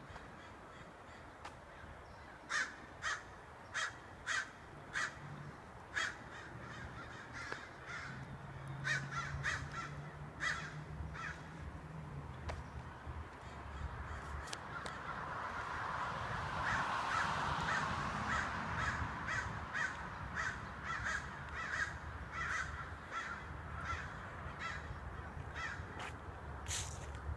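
A flock of birds calling over and over: a series of short, loud calls in quick succession a few seconds in, then a denser, steadier chorus that swells in the middle and thins out, with single calls continuing to the end.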